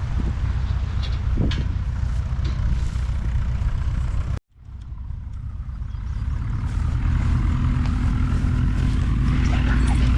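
Light propeller aircraft's piston engine running nearby, with a sudden break about four and a half seconds in; afterwards the engine sound builds back up and grows louder toward the end.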